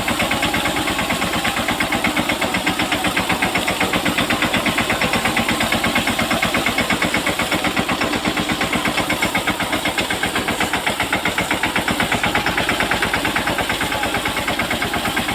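Mahindra Yuvraj 215 small tractor's single-cylinder diesel engine running steadily, with an even, fast chugging of firing strokes.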